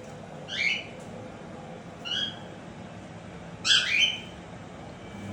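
Indian ringneck parakeet squawking: three short rising calls about a second and a half apart, the last a double call that is the longest and loudest, over a steady low background noise.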